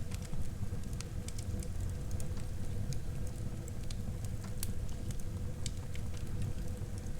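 Wood fire burning in a fireplace: a steady low rumble with frequent small sharp crackles and pops scattered irregularly.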